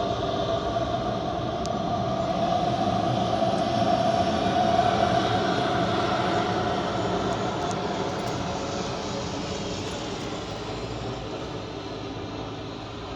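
Boeing 737-500's CFM56 turbofan engines running as the jet passes, a steady jet roar with a whine. It grows to its loudest about five seconds in, then slowly fades away.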